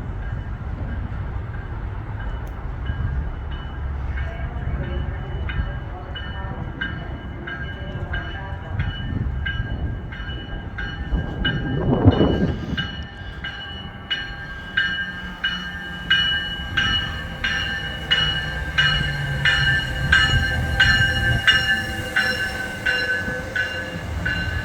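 Commuter rail train running into a station, with a low rumble and a loud swell about halfway through. In the second half its wheels click in a steady rhythm over the rail joints, under a steady high-pitched squeal.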